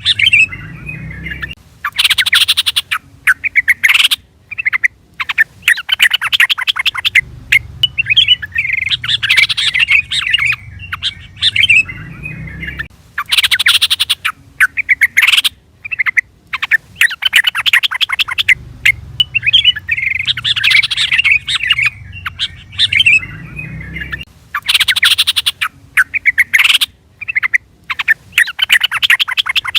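Trucukan (yellow-vented bulbul) calling: bright, bubbly chirping phrases alternate with bursts of rapid, harsh chattering. The pattern repeats about every eleven seconds, as in a looped call recording.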